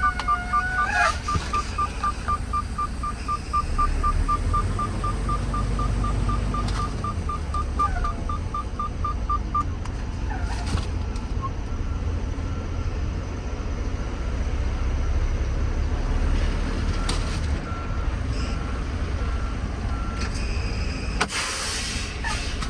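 Freightliner Cascadia semi truck's engine idling with a steady low rumble, while a rapid electronic beep repeats for roughly the first ten seconds and fainter beeps come and go after it. A short hiss sounds near the end.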